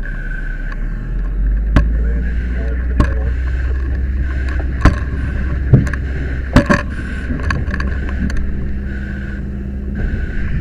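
Deep steady engine and pump rumble from a fire engine, growing louder about a second in as water is called for on the hose line. Several sharp knocks and clanks of equipment handling cut through it.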